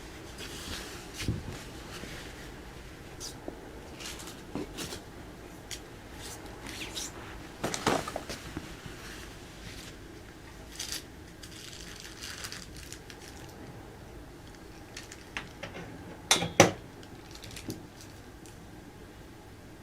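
Scattered small knocks and clicks in a quiet room, with a louder knock about eight seconds in and a double knock near the end.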